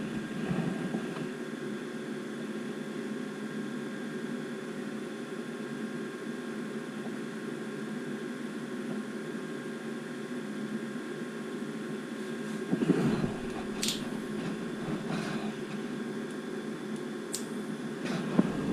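Furnace draft inducer motor running steadily with a hum, with a few clicks and knocks in the second half. It is not pulling enough draft to close the low-heat pressure switch, so the furnace faults.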